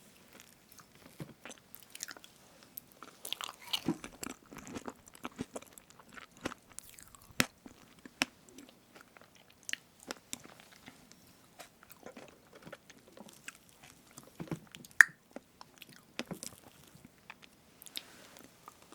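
Close-miked chewing and wet mouth sounds of someone eating strawberry cream cake, with scattered small clicks and one sharper click about fifteen seconds in.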